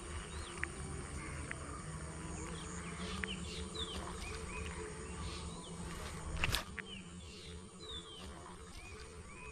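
Birds chirping in the open field, short notes that glide up and down, scattered throughout over a low steady rumble. A single sharp knock about six and a half seconds in.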